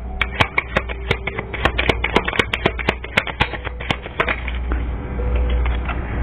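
Tarot cards being shuffled and handled by hand: a quick, irregular run of sharp clicks and snaps, several a second, over a steady low hum.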